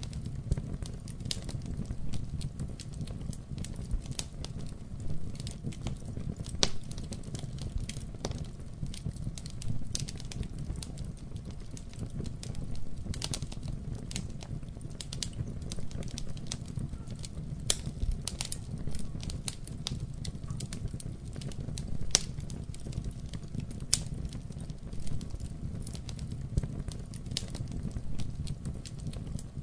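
Wood fire burning in a fireplace: a low steady rumble of the flames with irregular sharp crackles and pops, one louder pop a little past the middle.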